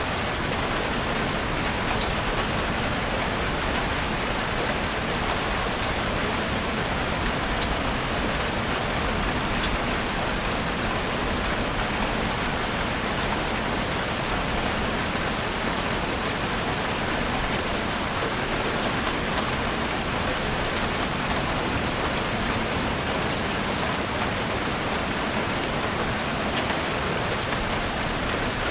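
Heavy rain falling on a roof: a steady, even hiss of dense drops with fine patter on top, unchanging throughout.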